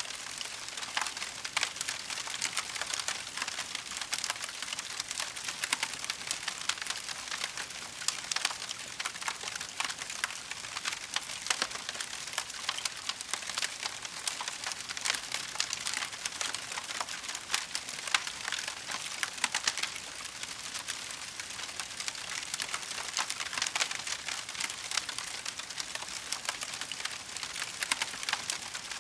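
Wood fire burning in a fireplace, crackling steadily with a dense run of small snaps and an occasional louder pop.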